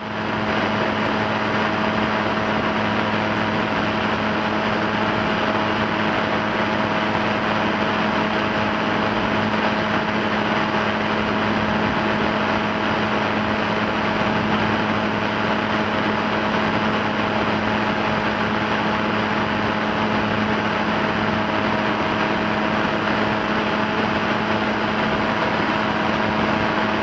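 Small aircraft engine running steadily: a constant engine drone with a steady hum over rushing air.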